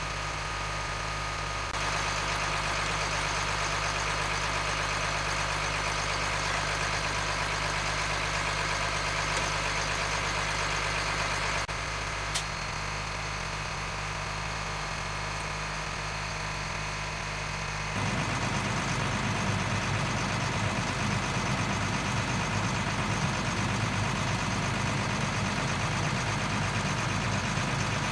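Diesel engine of an LMTV M-1078 military truck idling steadily. Its tone changes abruptly twice, and there is one sharp click about twelve seconds in.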